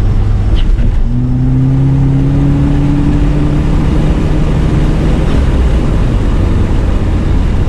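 Subaru WRX's turbocharged flat-four engine pulling under acceleration, heard inside the cabin. From about a second in, its drone rises slowly in pitch over steady road and wind noise.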